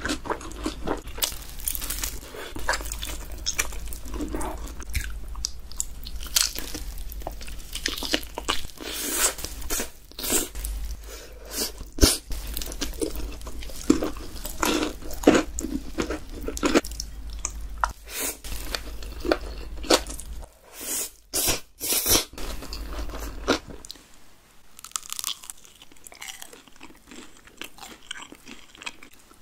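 Close-miked eating sounds: crisp crunching bites and chewing of crispy fried food, dense and loud, turning quieter and softer near the end.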